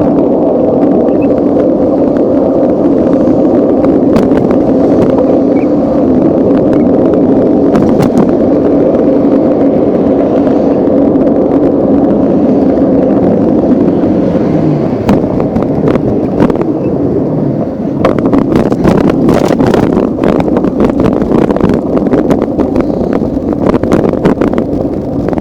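Steady, loud riding noise from a moving bike, a rumble with a droning hum. Rattling clicks and knocks come in about fifteen seconds in and carry on to the end.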